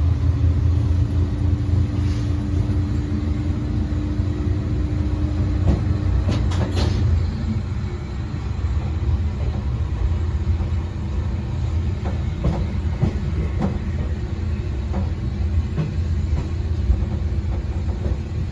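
Kanto Railway KiHa 2100 diesel railcar running under power at low speed after notching up to notch 3, a steady low rumble from the engine and running gear. A droning tone over it stops about six seconds in, and a few short clicks come around then.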